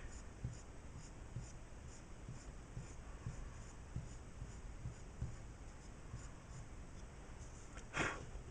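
Faint rubbing of a pointed eraser on drawing paper in short, repeated strokes, about two a second, lifting pencil graphite to make highlights, with a brief louder rub near the end.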